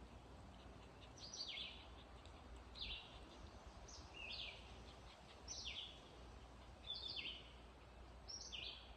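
A bird calling repeatedly: about six short, high chirps, each falling in pitch, roughly one every second and a half, over faint background hiss.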